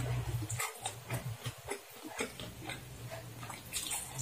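Close-miked chewing of a mouthful of fried noodles, with wet smacks and small mouth clicks, over a steady low hum.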